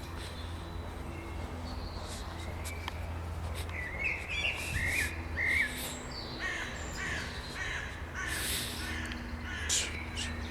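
Wild birds calling in spring: a run of short, repeated chirping notes about four to six seconds in, with other scattered calls around it, over a steady low hum.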